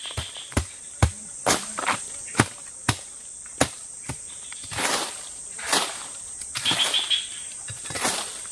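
Steady high-pitched drone of forest insects, with irregular sharp knocks and a few longer rustling scrapes from work on wood and brush.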